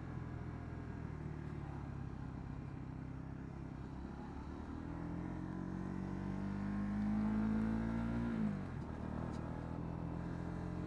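Honda CB125R's single-cylinder 125 cc engine running steadily, then revving up as the bike accelerates from about four and a half seconds in. The revs drop sharply about eight and a half seconds in and settle to a steady lower note.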